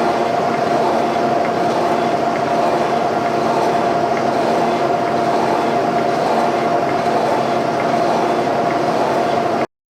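Boring machine running with its boring bar cutting a bore in a steel suspension frame: a steady mechanical running noise with a constant whine. It cuts off suddenly near the end.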